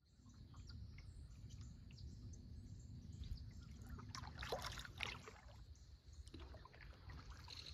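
Kayak paddle dipping and pulling through calm water, with faint drips and trickles off the blade, over a low steady rumble.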